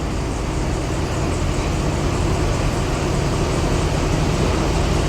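2013 Chevrolet Caprice engine running rough with a steady mechanical noise from the engine. The engine is misfiring on cylinder 4, and the mechanic is certain the cause is a worn camshaft lobe at that cylinder and a stuck lifter.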